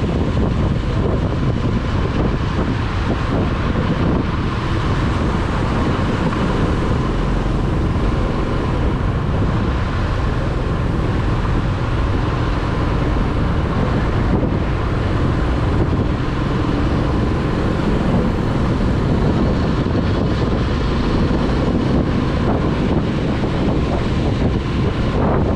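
Steady wind rush on the microphone of a moving Corven 110 Energy motorcycle ridden on a wet road, with the bike's small single-cylinder engine running underneath.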